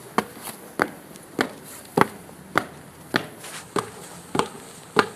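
Footsteps on a wooden staircase: evenly spaced knocks, a little under two a second, each with a short ring.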